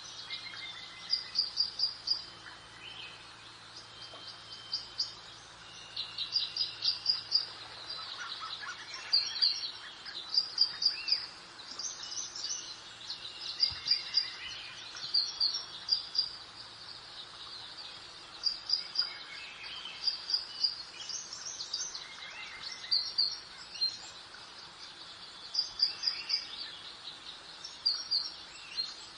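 Garden birds chirping, short phrases of quick high notes repeating every second or two, over a soft steady breeze-like hiss.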